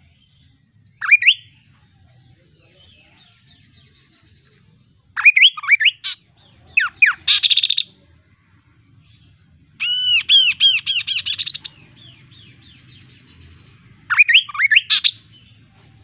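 Kaso-kaso bird singing in five short bursts of quick sweeping notes, the longest a run of about a dozen rapidly repeated notes about ten seconds in.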